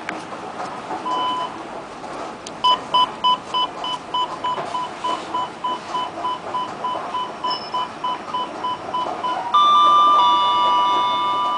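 Electronic beeping from a KONE elevator's signal: one short beep, then a rapid run of short beeps about three a second, changing near the end to a steady continuous tone.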